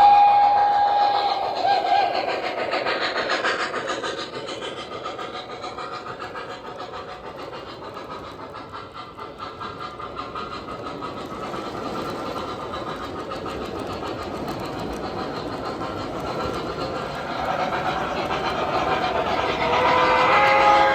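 O gauge model steam locomotives, MTH Premier Mikado and H10, running on three-rail track. A whistle from their onboard sound systems sounds at the start and stops about a second in. The wheels rumble and click over the rails, and near the end a whistle starts up again, louder.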